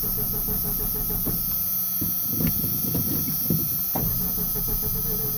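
Old Ford Ranger's starter cranking the engine with a steady, rapid chugging rhythm, broken briefly in the middle, as it tries a cold start after sitting unused for about a year and a half.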